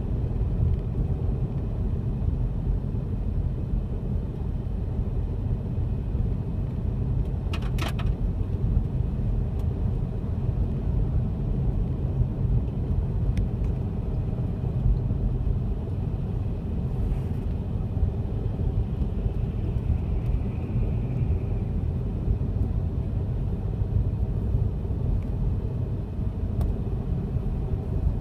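Steady low rumble of a car driving, road and engine noise, with a brief rattle about eight seconds in.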